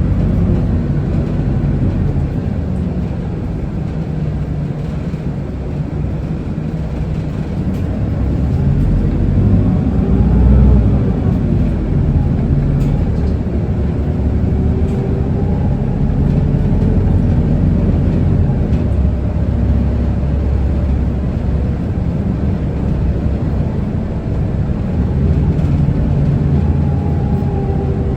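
Isuzu Erga city bus heard from inside the cabin while driving: diesel engine rumble with drivetrain whine that rises and falls in pitch as the bus speeds up and eases off, over steady road noise.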